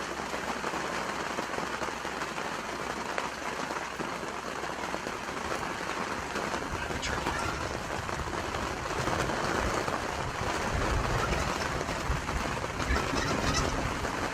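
Rain falling steadily on a surface, with a low rumble joining in about halfway through.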